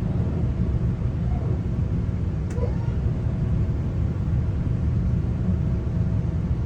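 Steady low rumble inside a GO Transit passenger coach with the train running, with a faint steady hum. A single sharp click comes about two and a half seconds in.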